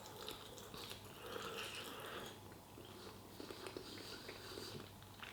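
A person chewing a mouthful of chilli con carne, faint, with small mouth clicks.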